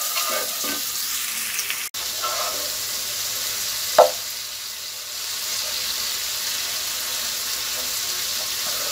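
Onion-tomato-spice masala sizzling in hot oil in a non-stick kadai while it is stirred with a wooden spatula, the frying (bhuna) stage of cooking the masala. One sharp knock about four seconds in.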